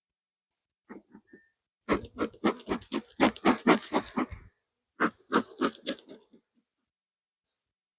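An animal calling in quick pulsed runs of about seven a second: a short run about a second in, a long loud run, then a shorter one near the end.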